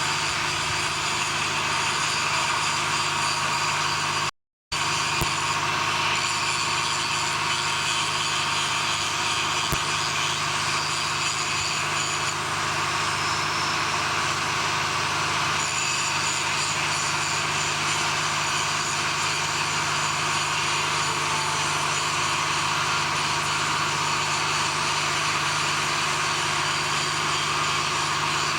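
Steady drone of heavy machinery running, engine-like, with a constant low hum underneath. The sound cuts out completely for a split second about four seconds in.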